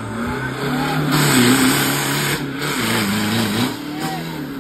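Modified off-road 4x4's engine revving hard, the revs rising and falling again and again, with a loud rushing noise over it from about a second in that eases near the end.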